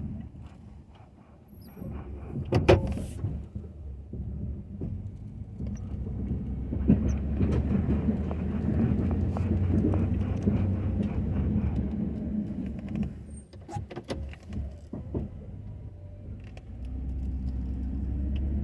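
Ford F-250 pickup's engine running, growing louder for several seconds in the middle and rising in pitch near the end, with a sharp knock about three seconds in and a few clicks later on.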